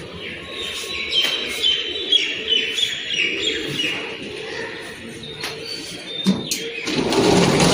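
Birds chirping: a run of short, high, falling chirps repeating about twice a second, then a louder rushing noise near the end.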